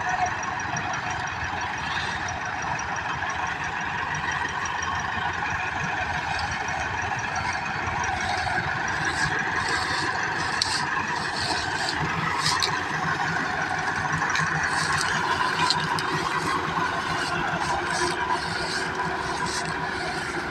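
Massey Ferguson 385 tractor's diesel engine running steadily, with scattered light rattles.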